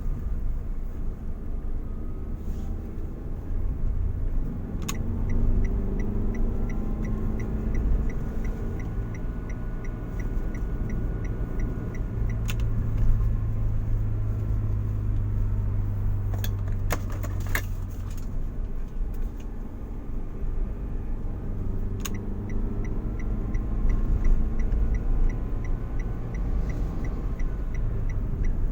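Car driving along, heard from inside: a low engine and road rumble whose engine note rises and falls. The turn-signal indicator ticks evenly, about two ticks a second, in two runs, with a few sharp clicks or knocks in between.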